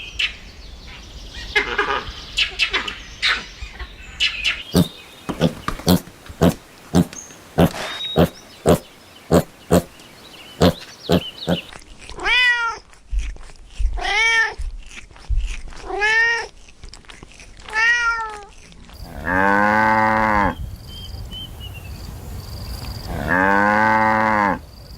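A series of animal calls. First comes a quick run of short, sharp clicks, about two a second. Then four short calls that rise and fall in pitch come about two seconds apart, and near the end two longer, lower calls follow.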